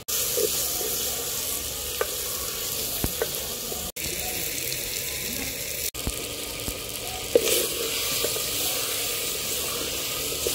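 Tomatoes, onions and green chillies sizzling steadily in hot oil in a clay pot, with a few short knocks; the hiss breaks off for an instant twice.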